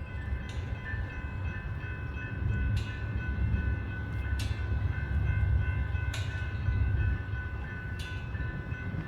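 Amtrak passenger train running by with a deep, steady rumble. Its wheels click sharply over rail joints five times, roughly every two seconds, over a few steady high tones.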